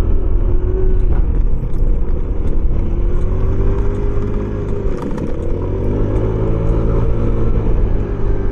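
A 125cc motor scooter engine running under way over a steady low rumble of wind and road. Its pitch drops as the throttle eases about five seconds in, then rises again as it speeds back up.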